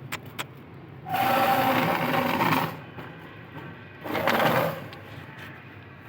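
Green ringneck parrot (rose-ringed parakeet) giving two harsh, rasping calls: a long one about a second in, and a shorter one about four seconds in.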